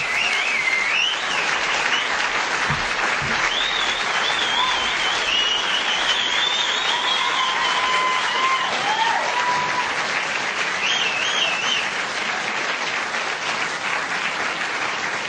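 Large audience applauding steadily, with high wavering cries rising above the clapping a few times.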